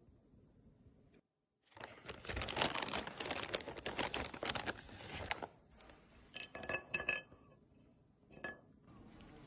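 Crisp crunching and crackling for about four seconds, then a few light clinks of dishes or glass.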